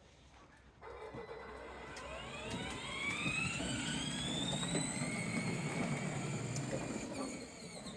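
A vehicle's motor starts about a second in and speeds up. Its whine rises steadily in pitch, then holds, over a rough low rumble.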